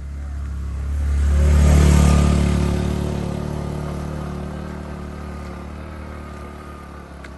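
Motorcycle passing by, its engine getting louder to a peak about two seconds in and then slowly fading away.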